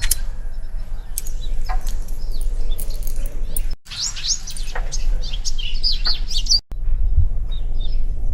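Songbirds chirping and calling in a rapid run of short notes and quick whistles, over a steady low rumble.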